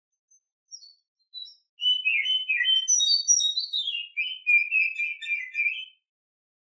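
Female Oriental magpie-robin (kacer) singing its breeding-season song, the kind used as a lure to stir males: a few soft single notes, then about four seconds of rapid, varied whistled notes jumping up and down in pitch, which stop shortly before the end.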